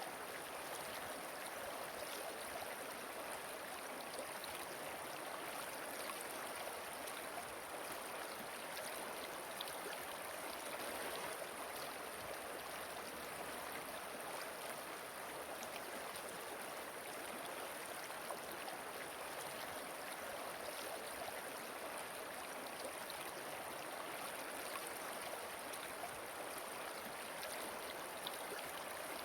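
A waterfall and flowing river: steady, unbroken rushing water with faint splashes and droplets.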